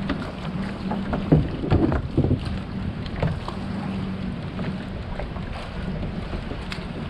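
Water moving around a fishing kayak, with wind buffeting the microphone and a steady low hum. Several sharp knocks or splashes come in the first few seconds, with a few more later.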